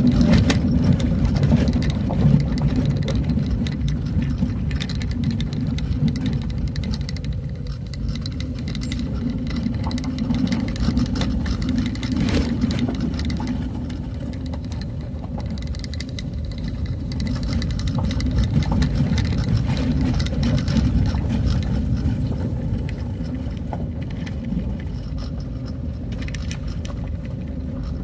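A motor vehicle travelling along a road: its engine runs steadily with a low rumble, and many short knocks and rattles sound throughout.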